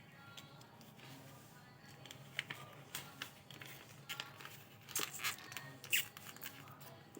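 A sheet of paper crinkling and rustling as it is folded and creased by hand: a string of short, sharp crackles that thickens from about two seconds in, with the loudest crackles near the end.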